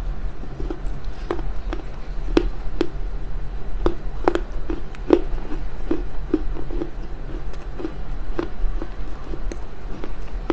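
Crunching and chewing of dry smoked loess clay chunks: a run of sharp, crisp crunches, about one or two a second, over a steady low hum.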